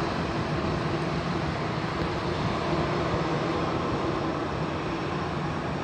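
Steady drone of jet airliner engines: an even rushing noise with a few constant low hums underneath, holding level throughout.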